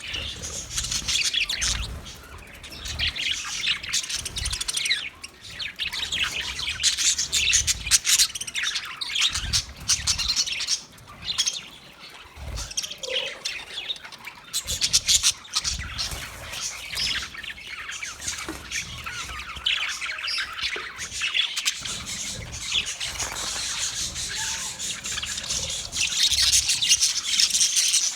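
Budgerigars chirping and warbling continuously, with short squawks and light clicks and bumps mixed in.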